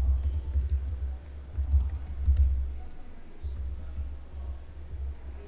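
Typing on a computer keyboard, irregular clicking keystrokes, over background music with a heavy deep bass.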